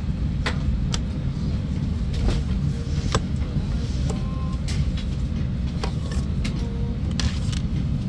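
Airbus A320neo cabin noise: a steady low rumble with scattered sharp clicks and knocks through it.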